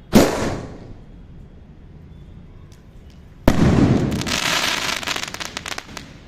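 2-inch sky shot firework shells going off: a sharp bang just after the start that fades over about a second. About three and a half seconds in comes a second loud burst, followed by a dense crackling that lasts about two seconds.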